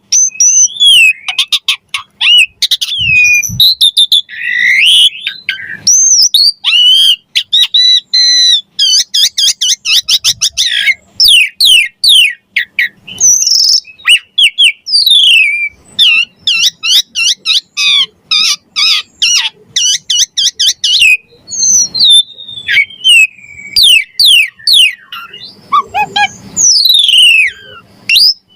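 Javan pied starling (jalak suren) singing without pause. It pours out a fast, varied run of clear whistles, rapid trills, and rising and falling sweeps.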